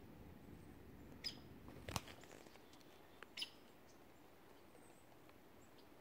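Quiet woods with a few short, high bird chirps, about a second in and again near three and a half seconds, and a single sharp click about two seconds in.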